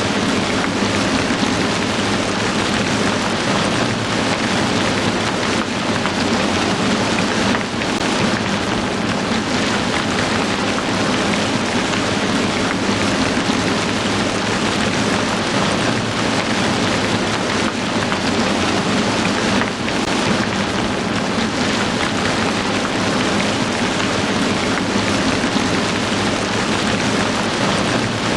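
Heavy rain falling steadily, a dense, even hiss that stays at one level throughout.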